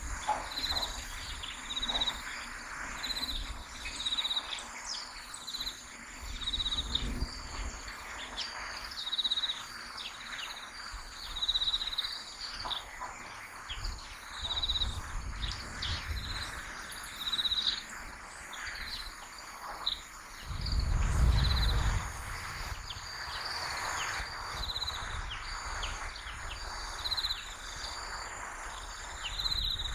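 Outdoor ambience of insects chirping in short, evenly repeated pulses about once a second, with scattered short bird calls. A brief low rumble comes about two-thirds of the way through.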